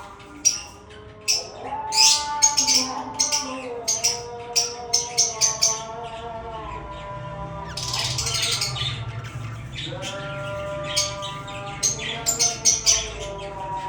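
Budgerigar chirping in quick runs of sharp high chirps, with a longer scratchy chatter about eight seconds in, over background music with held notes.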